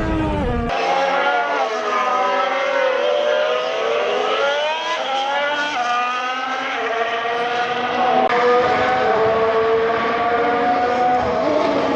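A 2026 Audi Formula 1 car's V6 turbo-hybrid engine running loudly on track. Its pitch falls as the car slows, then climbs again in steps as it upshifts, about halfway through and again a couple of seconds later.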